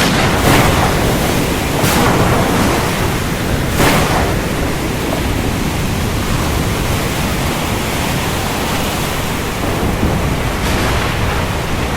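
Steady heavy rain with a low rumble of thunder, swelling briefly a few times in the first four seconds.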